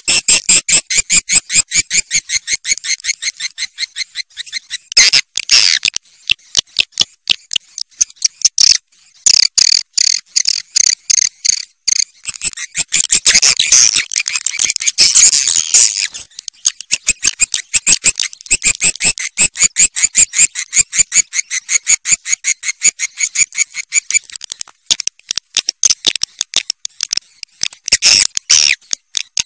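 Swiftlet calls: a fast, steady run of sharp, high chirps, about five a second, with bursts of denser twittering several times over.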